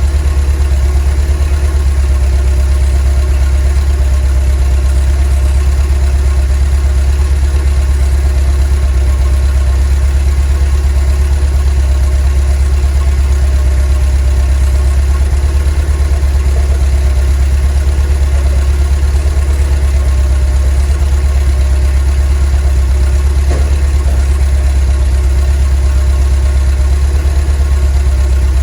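VW T3 bus's 2.1-litre water-cooled flat-four (Wasserboxer) engine idling steadily, a deep even hum with no change in speed.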